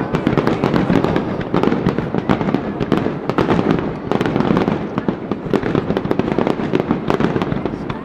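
A dense, continuous string of sharp pops and crackles.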